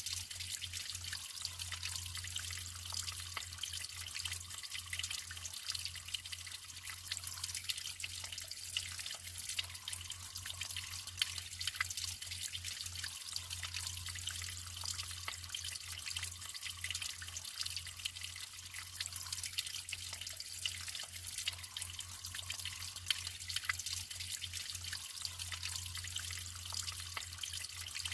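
Natural water flowing and trickling steadily, with many small drips and splashes and a low steady rumble underneath.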